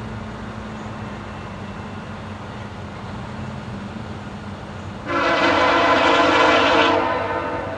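Air horn of a VIA Rail F40PH-2 diesel locomotive sounding one loud, chord-like blast of about two seconds, starting about five seconds in, over the low steady rumble of the approaching train.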